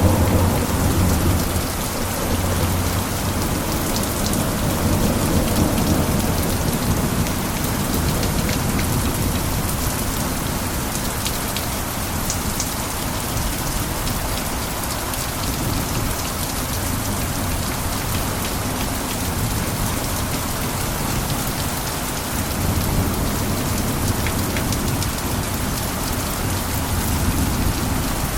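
Steady rain falling on a roof, an even hiss of drops, with a low rumble that swells and fades a few times.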